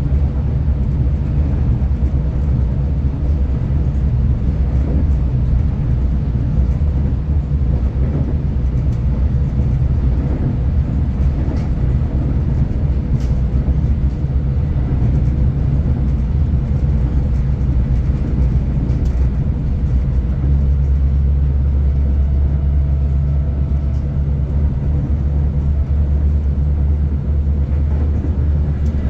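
Steady low rumble of a V/Line passenger train running along the line, heard from on board; the deep drone grows stronger about two-thirds of the way through.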